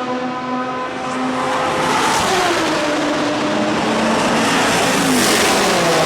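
Ford/Roush V8 racing engine of a Lola B98/10 prototype running hard at high revs. Its note holds steady at first, then drops in pitch twice.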